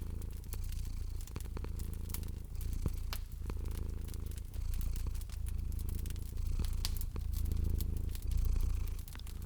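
A domestic cat purring steadily, with a low rumble that swells and eases in slow cycles about a second long. Over it, a fireplace fire crackles with frequent sharp pops and snaps.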